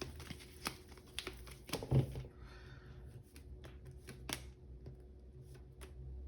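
Tarot cards being shuffled and handled: a run of short, irregular card snaps and clicks over a faint steady hum.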